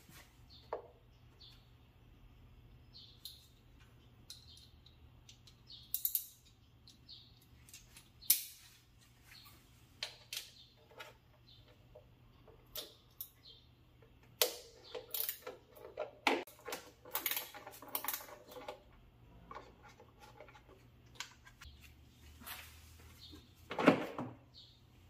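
Scattered clicks, clinks and knocks of handling hard objects, with a busier run of metallic clinking about two thirds of the way through and one louder knock near the end.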